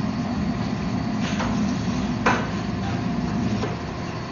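Sharp metal-on-metal strike about two seconds in, the loudest sound, with a weaker knock a second before it and a faint one later, as the forged steel billet is knocked about. Under it runs a steady low drone of shop machinery.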